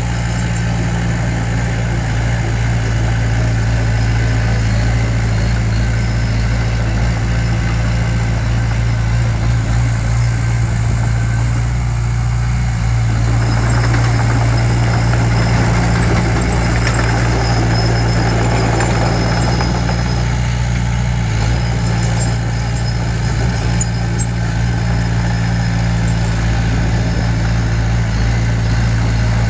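Diesel engine of heavy earthmoving machinery running steadily at a low, even pitch. A stretch of added rough, noisy sound comes about halfway through.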